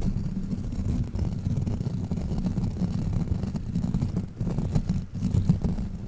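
A fidget crawler toy rubbed and handled against the microphone, giving a dense, low, crackling rumble with a few sharper scrapes near the end.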